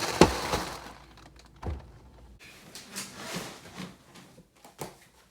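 Kitchen doors and food packages being handled: a sharp knock just after the start, another about 1.7 s in, then softer rustling and small knocks.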